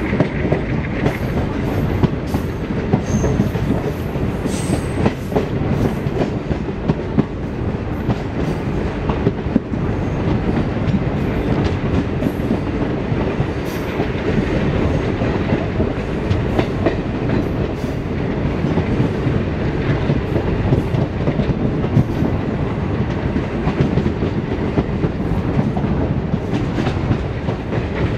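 Running noise of an Indian Railways passenger train heard from an open coach door: a steady rumble with the clickety-clack of wheels over rail joints. Another train's coaches pass close by on the next track.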